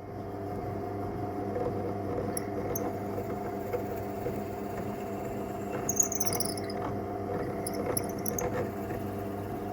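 A steady mechanical hum holding several fixed pitches, with faint ticks and a few brief high chirps that fall in pitch about six seconds in and again near eight seconds.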